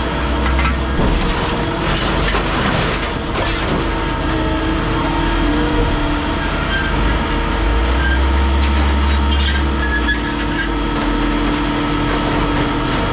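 Scrap metal baler running, compacting a load of scrap: a steady heavy machine hum with scattered metallic clicks and short squeals.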